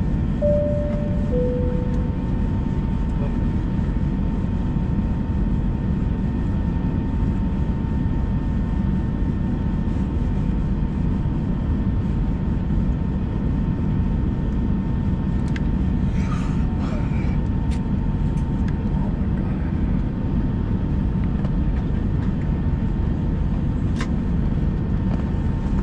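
Steady cabin noise inside an Airbus A321 airliner at rest on the ground: an even roar of engines or air conditioning with a faint constant whine. Near the start a two-tone high-low cabin chime sounds once.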